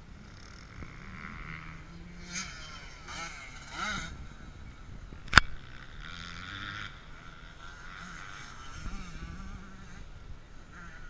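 Motocross motorcycles running on the track, their engines revving up and down. A single sharp knock about five seconds in is the loudest sound.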